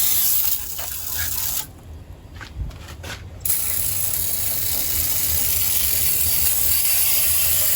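Aerosol can of engine degreaser spraying with a hiss, the can nearly empty: a short spray, a pause with a few clicks, then one long continuous spray from about three and a half seconds in.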